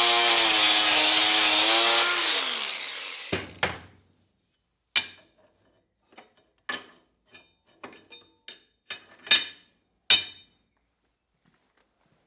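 Angle grinder running on steel sill panels, its pitch sagging briefly under load, then switched off and winding down about two to three seconds in. A string of separate short knocks and taps follows.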